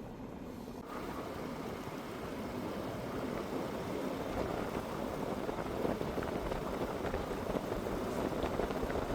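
Steady road and tyre noise of a car driving, which grows slightly louder over the stretch.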